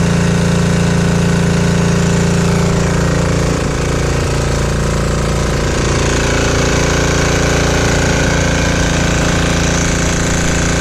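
Single-cylinder 196cc 168F diesel engine generator running steadily on extra virgin olive oil during a load test, with a hard, rapid diesel knock. The level dips briefly about a third of the way in.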